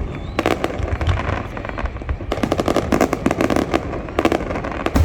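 Fireworks going off: many sharp bangs and crackles, coming thickest in a rapid run from about two to three and a half seconds in, over a steady low rumble.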